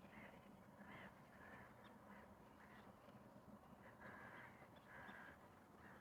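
Faint, distant bird calling: a series of short harsh calls, about one or two a second, with a couple of longer calls about four and five seconds in.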